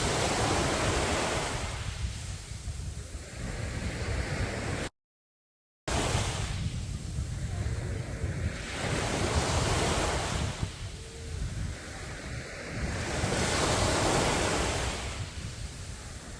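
Sea waves breaking and washing up a sandy beach, swelling and falling back every three to four seconds, over a steady low rumble of wind on the microphone. The sound cuts out completely for about a second around five seconds in.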